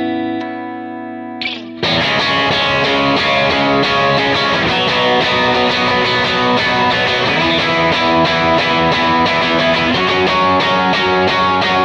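Electric guitar through a Kemper profile of a 1966 Vox AC30 with its channels jumpered, set just past halfway into a bluesy overdrive. A chord rings out and fades, then about two seconds in busy, rhythmic picked playing starts and runs until it cuts off abruptly at the end.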